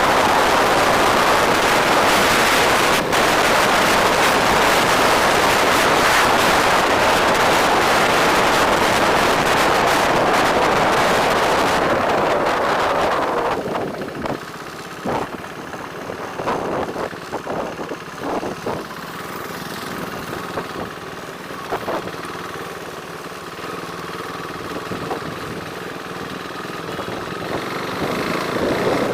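Wind buffeting the microphone of a bike rider moving at speed, mixed with road and engine noise. About thirteen seconds in it drops away to quieter road and traffic sound with scattered short knocks, then builds again near the end as speed picks up.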